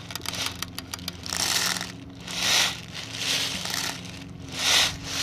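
BBs being dumped and shaken through a loader into a BB gun magazine: a rattling hiss that swells and fades three times, with a few light clicks. A steady low hum runs underneath.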